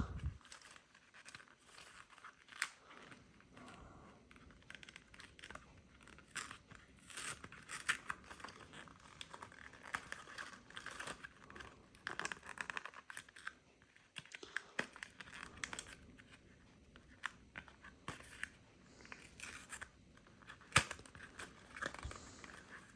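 Packaging of coffee-machine cleaning tablets being forced open by hand: quiet, irregular crinkling and tearing with scattered sharp clicks.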